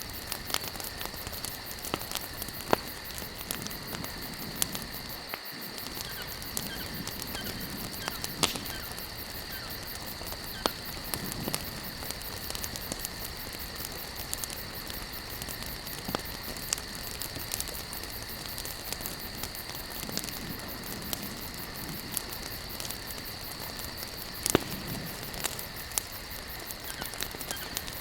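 Campfire of burning logs crackling steadily, with sharp louder pops every few seconds. A steady high-pitched insect chirring, like crickets, runs underneath.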